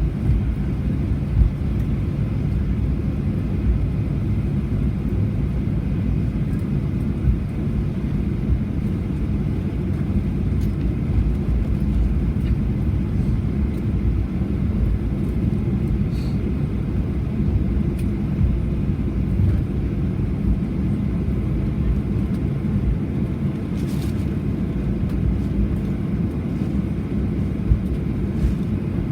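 Steady low rumble inside the cabin of a Boeing 737-800, from its CFM56 engines and airframe, with no rise or fall, and a few faint clicks on top.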